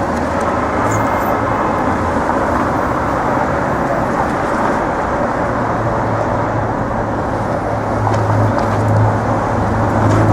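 City street traffic: a steady wash of vehicles passing, with a low engine rumble growing louder over the last few seconds.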